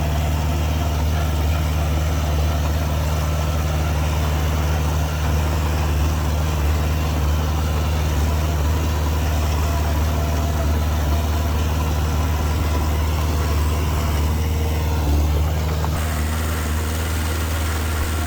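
Diesel engine of heavy earthmoving machinery running steadily, a low even drone. The sound changes abruptly about 16 seconds in.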